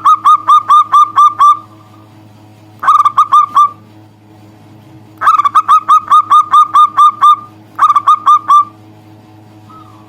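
Zebra dove (perkutut) calling in rapid series of short, clipped, hooked coos, about six a second. The calls come in four bursts of one to two seconds, over a steady low hum.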